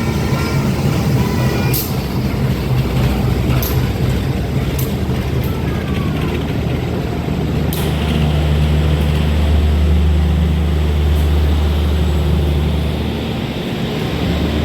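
CC201 diesel-electric locomotive running as it pulls into the station, its engine a loud, steady, deep drone that grows stronger about eight seconds in. Several sharp metallic clanks sound over it in the first half.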